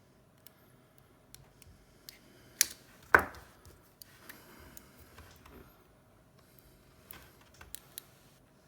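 Small tools and phone parts being handled on a work surface: scattered light clicks and taps, with two louder knocks about half a second apart near the middle, the second ringing briefly.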